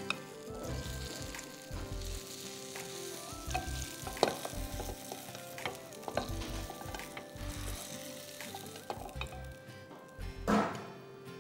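Food frying in hot oil in a pan, a steady sizzle with scattered crackles, over soft background music, with a louder knock near the end.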